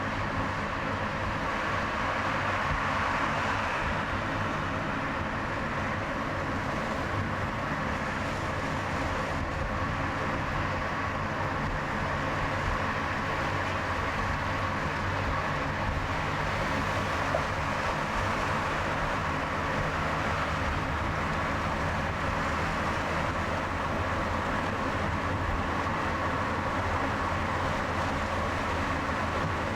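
A car driving along a highway: steady tyre and engine noise with a low hum, unchanging throughout.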